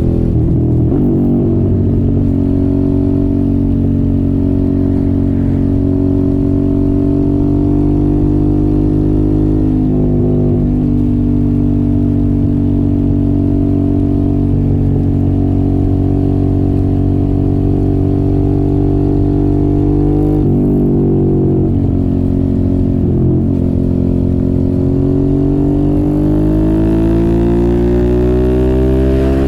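Suzuki motorcycle with an aftermarket exhaust running on the road. Its engine holds a fairly steady note, with brief breaks where the pitch drops and picks up again at gear changes: about a second in, around the middle, and twice later on. Near the end the note rises steadily as the bike accelerates.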